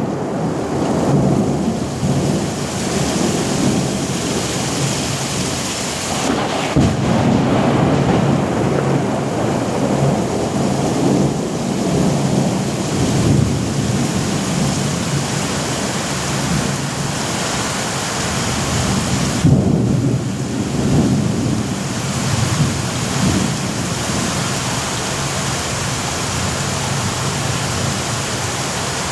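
Thunderstorm: rolling thunder rumbling continuously over steady heavy rain, with a sharp crack about seven seconds in and another loud clap about twenty seconds in.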